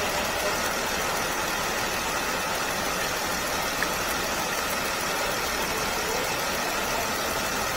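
2014 Jeep Wrangler's V6 idling as it warms up after a radiator replacement and coolant refill, with the heater blower set to full hot giving a steady rush of air.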